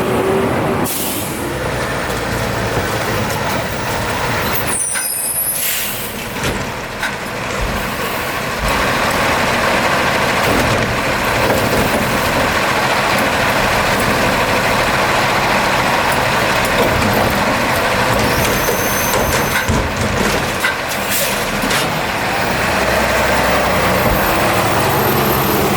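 Garbage truck working at close range: its diesel engine runs steadily, with a few short hisses of released air mixed in.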